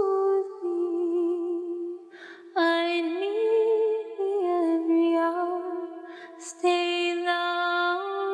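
Unaccompanied female singing of a slow hymn: long held notes that step gently in pitch, with short pauses and breaths about two seconds in and again near six seconds.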